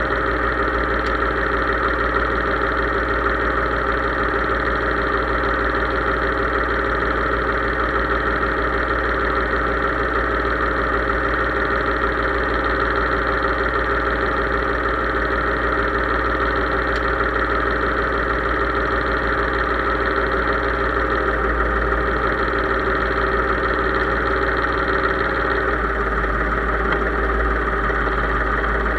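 Case IH 3220 tractor's diesel engine running steadily at a constant speed, its note shifting slightly near the end.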